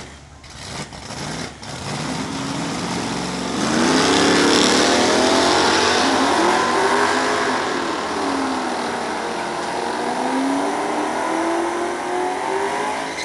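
2004 Ford Mustang Mach 1's 4.6-litre DOHC V8, breathing through an aftermarket exhaust, revving high through a burnout with the rear tyres spinning. The revs climb about two seconds in and the engine is at its loudest a second and a half later. Its pitch then wavers up and down while the revs are held, over the hiss of the spinning tyres.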